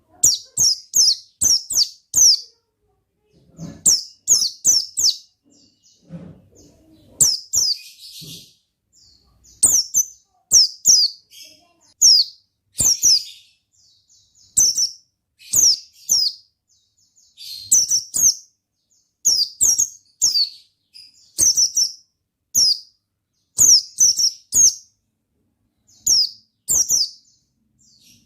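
White-eye (pleci) singing: quick runs of three to five high, sharp, downward-slurred chirps, repeated every second or two.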